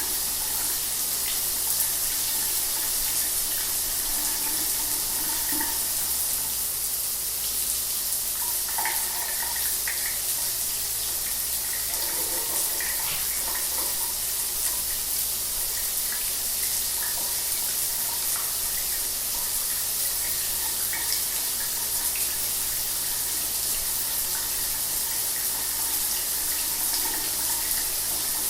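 Shower running steadily: a continuous hiss of water spray, brightest in the high end, with small irregular splashes.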